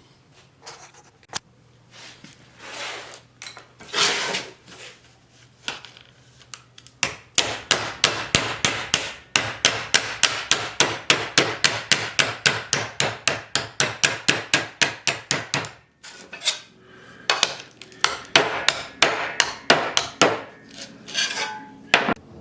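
Hammer strikes in a workshop: a few scattered blows, then a fast even run of about four to five blows a second for some nine seconds, then irregular strikes again.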